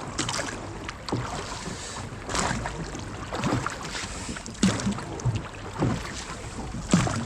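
Oars rowing a small sailing dinghy: a stroke about every second and a quarter, each a short splash and clunk of the oars in their loosely mounted rowlocks, over steady wind noise on the microphone.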